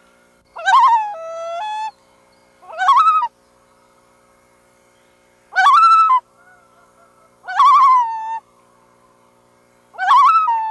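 Loon calling repeatedly, five loud wavering cries about two seconds apart. Each cry rises and warbles, then settles into a held note that steps in pitch.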